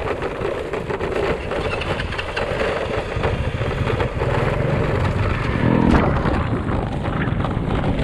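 Engine of a moving vehicle running steadily under way, with wind and road noise, and a brief knock about six seconds in.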